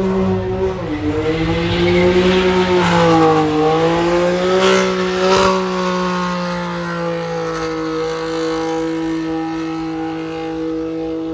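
A car engine revved and held at high rpm with a steady pitch that dips briefly about a second in and again near four seconds, with tyre squeal and two short cracks in the middle.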